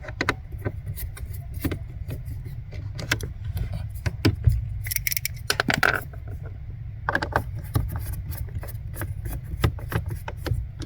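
Hand tool clicking and rattling as the screws holding a Kia Sorento's A/C servo motor are undone, with irregular sharp clicks and small metallic taps and a short cluster of knocks partway through.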